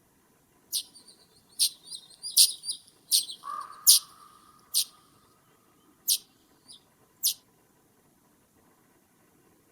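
A bird giving a series of short, sharp, high calls, about nine in all and irregularly spaced, with a lower, drawn-out note about three and a half seconds in that fades over about two seconds. The calls stop about seven and a half seconds in.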